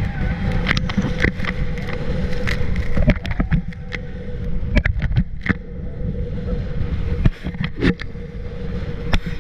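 Wind buffeting the microphone and water splashing on a banana boat ride towed by a motorboat, with a steady engine drone beneath. Short sudden splashes and gusts come throughout.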